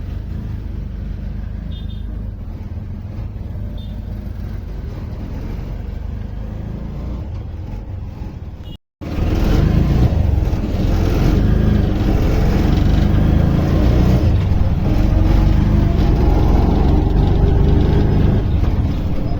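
Auto-rickshaw ride: engine running with steady road and traffic noise. It cuts out for an instant about nine seconds in and comes back louder.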